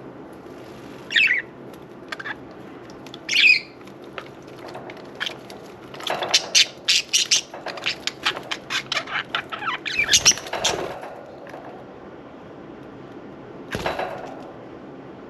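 Budgerigars chirping and fluttering their wings as they bathe: two short chirps, then a busy run of quick flutters and chirps lasting about five seconds, and one more flutter near the end. A steady trickle of fountain water runs underneath.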